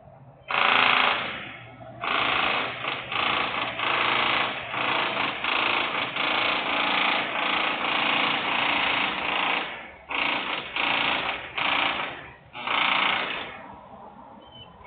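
Loud industrial work noise coming in harsh bursts of one to a few seconds with brief gaps between them, starting about half a second in and easing off near the end.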